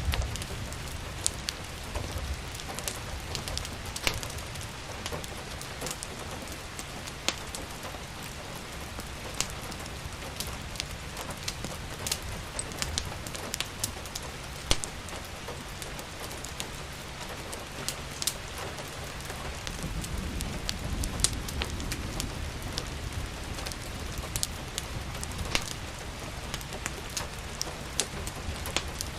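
Steady rain hiss with frequent sharp pops and crackles from a wood fire scattered through it. A low rumble swells briefly about two-thirds of the way in.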